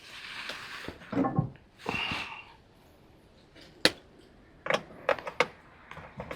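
Handling sounds from a small cordless electric chainsaw just after its bar-oil tank has been filled: a few rustles and a short squeak, then sharp plastic clicks and light knocks near the end.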